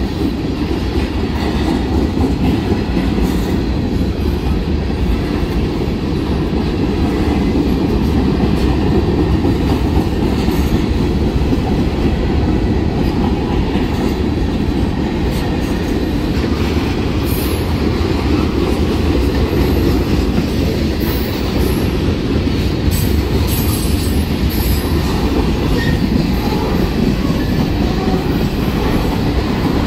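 Freight cars rolling past on steel wheels: a loud, steady rumble on the rails, with scattered sharp clicks over the rail joints.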